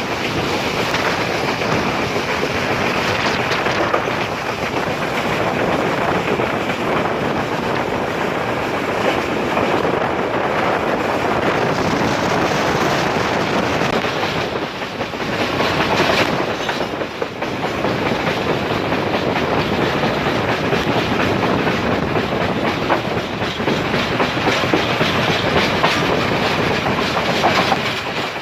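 Sri Lanka Railways express train running at speed, heard on board: a steady rumble of wheels on rail with the clickety-clack of the wheels passing over rail joints.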